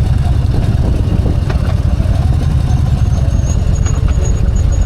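Harley-Davidson V-twin motorcycle engine running steadily under a dense low rumble as the bike rides along, with a faint high thin tone in the second half.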